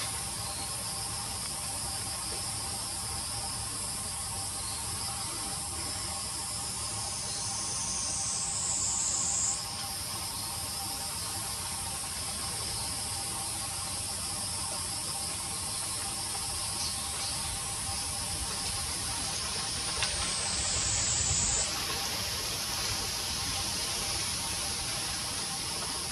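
Insects buzzing in a steady, high-pitched chorus. Twice a louder buzz swells, slides down in pitch and cuts off suddenly.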